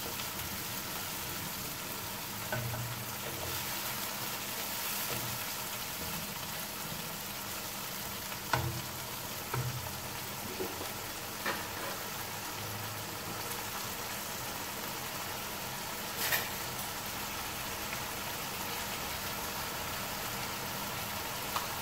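Marinated chicken pieces frying in hot oil in a wok, with a steady sizzling hiss. A few short knocks and scrapes come from a wooden spatula stirring against the pan.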